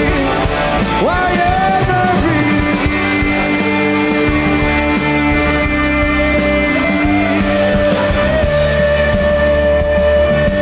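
Live rock band playing a loud instrumental passage: long held lead notes, one sliding up about a second in, over steady bass and drums.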